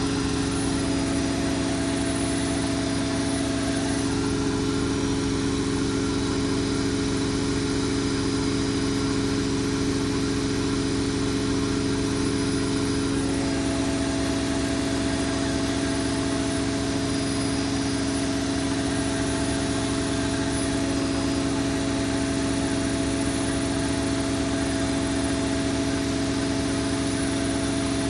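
Zanussi Lindo 100 washing machine spinning at high speed in its final spin, a steady motor hum and whine with an even rush of noise that does not change.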